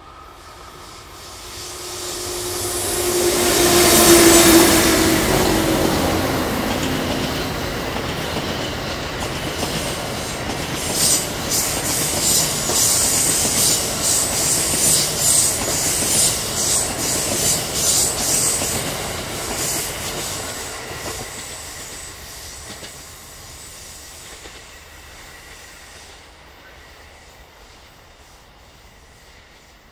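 EF81 electric locomotive and its train of double-deck sleeper coaches passing. The sound swells to its loudest about four seconds in as the locomotive goes by, its hum dropping in pitch. Then comes a rhythmic clatter of the coaches' wheels on the rails, which fades away as the train recedes.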